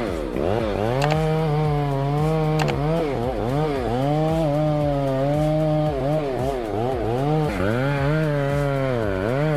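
Chainsaw running at high revs, its pitch repeatedly dropping and climbing back up.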